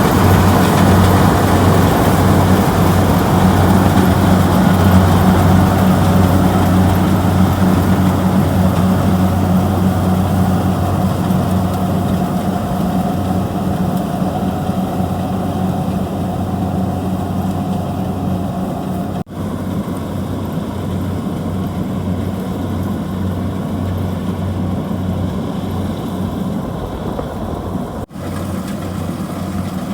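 Kubota DC-70G rice combine harvester's diesel engine running steadily under working load, with a slow fade in level and two very brief dropouts, the second near the end.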